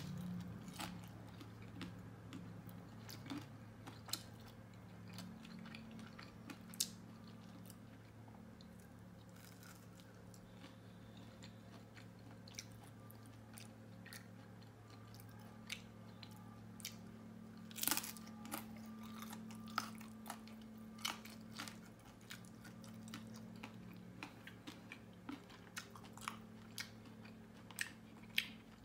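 A person chewing and biting crisp fried dumplings close to the microphone, with scattered sharp crunches and mouth clicks, the loudest about 18 seconds in. A steady low hum runs underneath.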